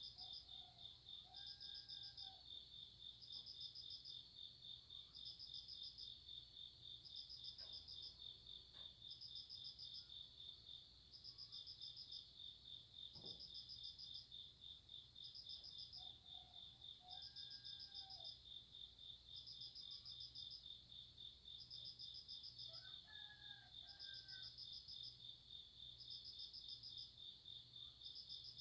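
Faint chorus of crickets: a steady pulsing trill, with another insect's chirp groups repeating about every second and a half. Three times a rooster crows in the distance, first near the start, then about two-thirds of the way through, then twice in quick succession.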